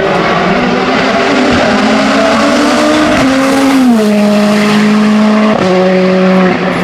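Hillclimb race car engine running hard at high revs, its pitch climbing slowly and then dropping in two sudden steps, about four and five and a half seconds in.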